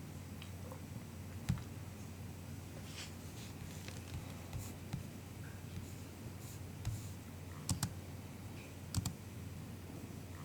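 Soft MacBook keyboard keystrokes, sparse and irregular: single clicks and quick pairs with pauses of a second or more between them, over a low steady hum.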